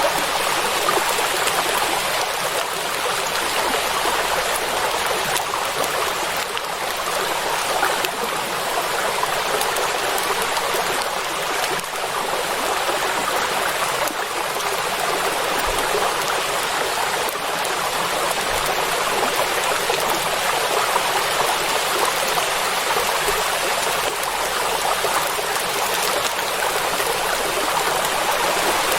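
Steady heavy rain falling on water, a dense even patter with no thunder.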